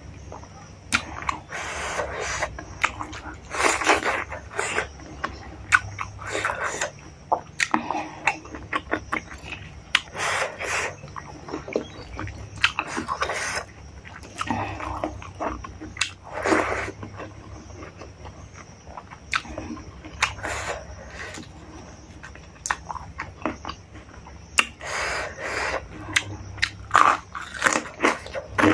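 A person chewing a mouthful of rice and pork curry, with wet mouth sounds and sharp clicks in irregular bursts.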